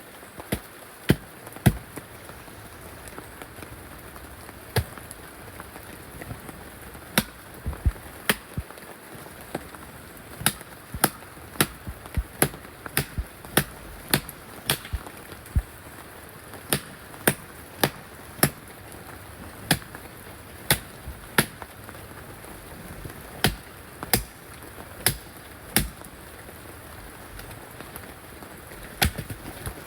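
Repeated sharp blows of a hand tool striking wood, roughly one a second at an uneven pace with short pauses, over a steady hiss of rain.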